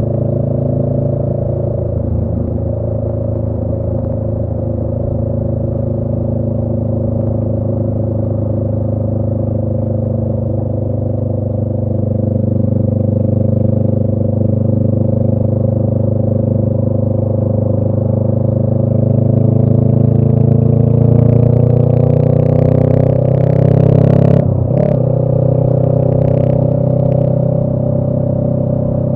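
2018 Honda Rebel 500's parallel-twin engine through a Radiant Cycles Shorty GP aftermarket exhaust, running at a steady cruise. About two-thirds of the way through the engine note climbs slowly in pitch as the bike speeds up, then dips sharply and briefly before settling into a higher steady note.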